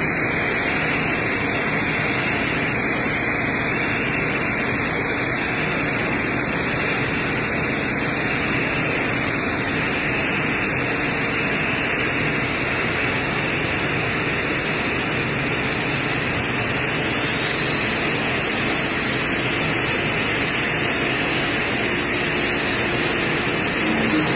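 TIG welding arc giving a steady, unbroken hiss.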